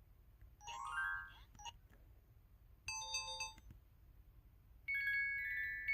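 KTF-TR2000 mobile phone's electronic alert tones, played one after another: a short rising run of notes about a second in, a brief beep around three seconds, then a longer held tone starting about five seconds in.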